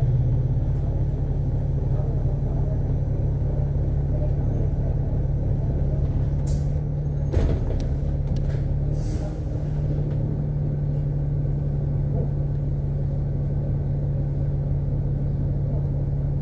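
Interior sound of a KMB Alexander Dennis Enviro500 double-decker bus under way: the engine and drivetrain give a steady low hum. Short hisses of air come about six and nine seconds in, with a sharp knock between them.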